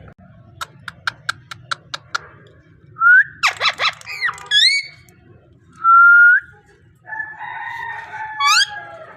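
Parrot calling and whistling: a run of about eight quick clicks, then a loud burst of rapid whistled notes with upward swoops, a single held whistle rising at its end about six seconds in, and further whistles with rising sweeps near the end.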